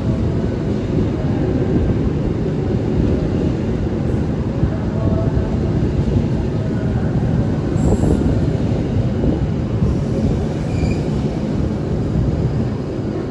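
A train running through a station: a loud, steady rumble of wheels on the rails, with faint high squeals near the end.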